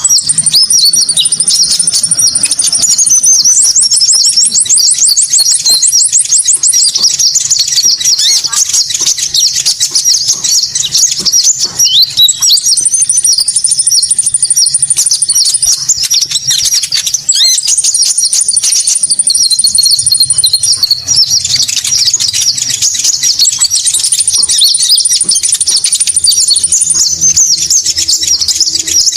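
Konin bird calls from a bird-lure recording: continuous high-pitched chattering chirps, with a thin, higher trill that comes back several times, each lasting about three seconds.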